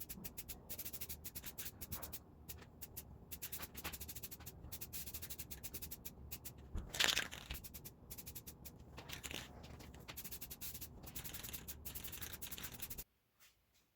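Quick, repeated back-and-forth abrasive rubbing strokes, several a second, like hand sanding, with one louder scrape about halfway through. The sound cuts off suddenly about a second before the end.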